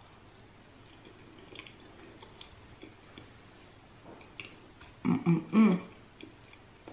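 Chewing a mouthful of soft mashed potato, with faint wet mouth clicks. About five seconds in comes a loud closed-mouth hum of enjoyment, "mm-mm", in two short pulses.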